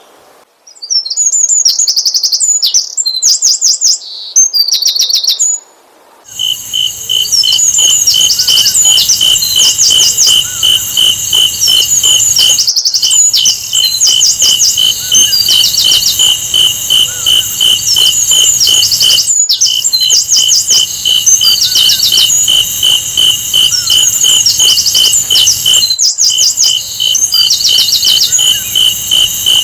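Recorded song of a sikatan londo flycatcher: repeated high, fast trilled phrases. About six seconds in, a denser looped section begins, with a steady, rapid high pulsing beneath the trills and brief drop-outs about every seven seconds where the loop restarts.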